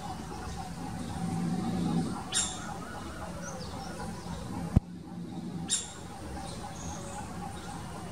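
Outdoor ambience of birds calling: a short sharp call repeated about every three seconds, with faint high chirps between, over a low steady background hum. A single sharp click comes just past the middle.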